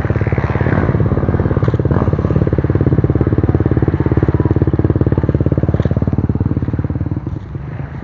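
Trail motorcycle engine running steadily and loudly with an even, rapid firing beat. It drops off in level near the end.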